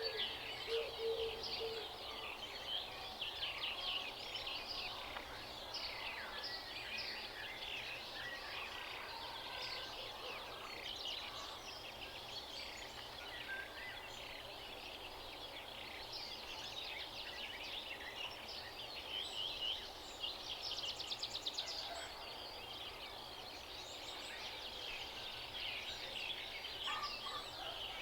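Many songbirds chirping and singing at once in a dense, continuous chorus of short, high calls, with a rapid trill about 21 seconds in.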